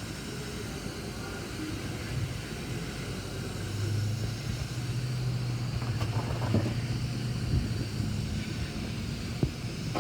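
Steady low machine hum that grows stronger about four seconds in, with a few short sharp knocks.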